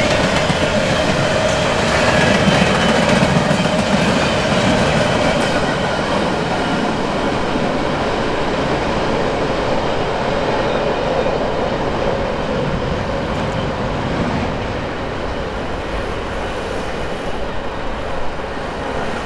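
Freight cars of a coil steel train rolling along the track. The noise of wheels on rail slowly fades as the end of the train moves away.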